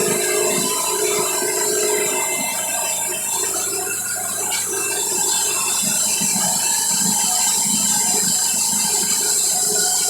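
Wood-Mizer band sawmill with its roughly 60-horsepower diesel running and its 1.5-inch band blade cutting through a walnut log: a steady mechanical drone with a high hiss.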